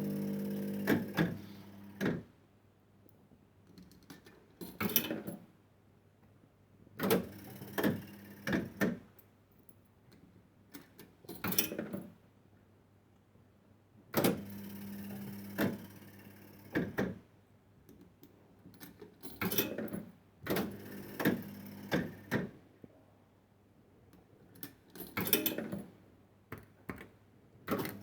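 Clusters of mechanical clicks and clunks every few seconds from the 1970s fruit machine, with a few short stretches of steady electrical hum beneath them.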